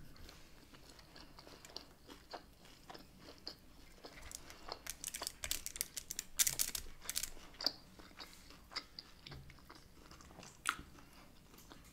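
A person chewing grilled lamb close to the microphone, with soft wet mouth clicks, and a metal fork cutting the meat in a foil takeaway tray. The clicks are thickest in the middle, with one more near the end.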